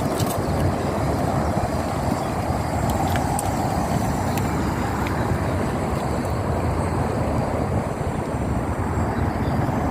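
Magic Mobility Extreme X8 all-terrain powered wheelchair driving along a wooden boardwalk: a steady rumble of its drive and tyres on the boards, with a few faint clicks.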